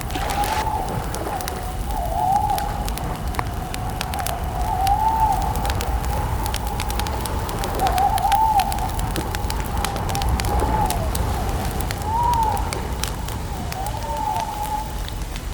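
A bird calling over and over in short rising-and-falling notes, over a steady crackling campfire and a low rumble.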